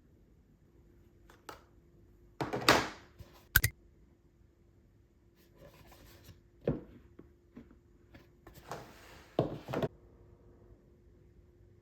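Objects being handled: a loud rustle and a sharp click a few seconds in, a knock, then more rustling with knocks near the end, over a faint steady hum.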